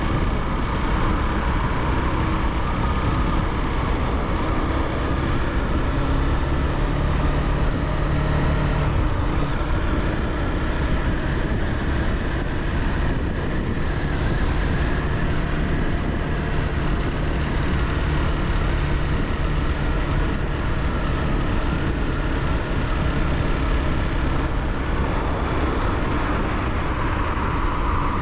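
Honda CBR300R's single-cylinder engine running steadily under way, mixed with a continuous rush of road and wind noise; the engine note shifts slightly a few times.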